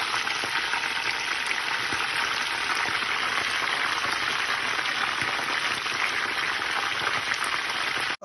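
Two whole Cornish game hens frying in hot oil in a pan: a steady sizzle with fine crackling, which cuts off suddenly near the end.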